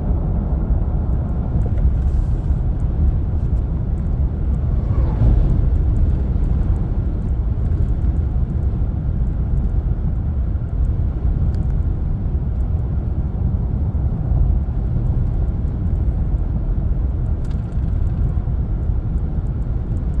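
Steady low rumbling noise, with a faint falling tone about five seconds in.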